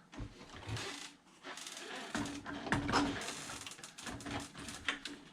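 Clicking and clattering of plastic and metal RC truck parts being handled and fitted around the front wheel assembly. A steady low hum comes and goes from about two seconds in.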